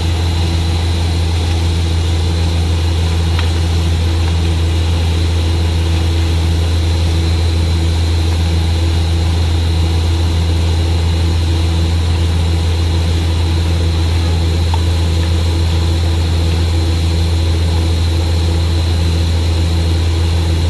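Borewell drilling rig's heavy diesel engine running steadily under load, a loud, constant low drone.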